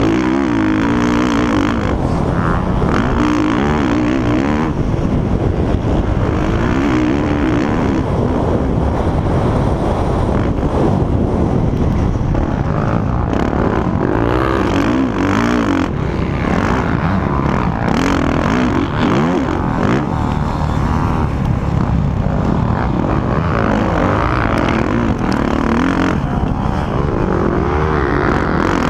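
Several motocross bikes' engines running hard, their pitch rising and falling with the throttle, one engine overlapping another, loud and continuous.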